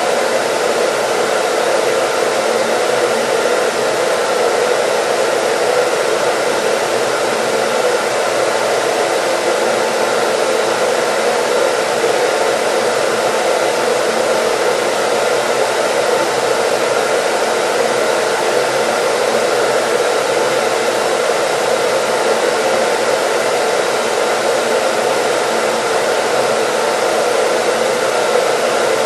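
Hair dryer running steadily: an even, unchanging rush of blown air over a faint motor hum.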